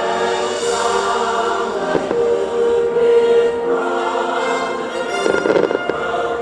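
Fireworks show: patriotic music with a choir singing over loudspeakers, with firework bangs and crackling mixed in and a dense cluster of pops a little past five seconds in.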